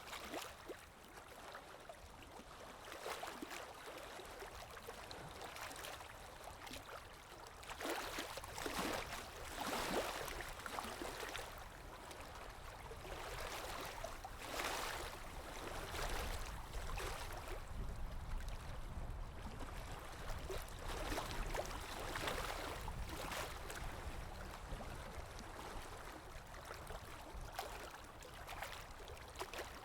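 Water lapping in small, irregular splashes that swell and fade every second or two, over a low, steady wind rumble.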